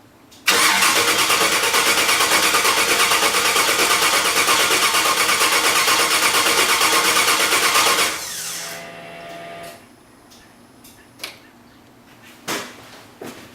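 Electric starter cranking an engine for about seven and a half seconds with an even pulsing, the engine not firing, then the starter winding down with a falling whine; a few sharp clicks follow. The engine fails to catch, which the owner puts down to an ignition ('juice') problem.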